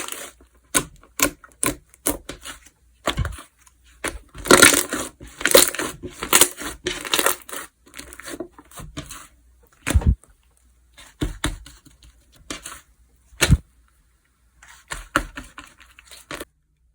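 Slime being squeezed and stretched by hand: irregular sticky crackling and clicking, with a few short deep pops.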